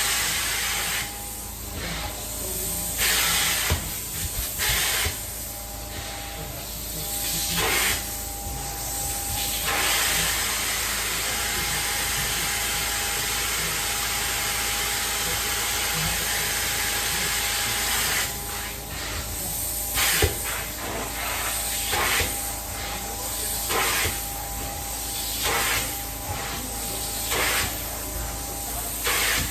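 Carpet-cleaning extraction wand hissing as it sprays and sucks up water. It works in short back-and-forth strokes, with one long unbroken pass in the middle, over the steady whine of the machine.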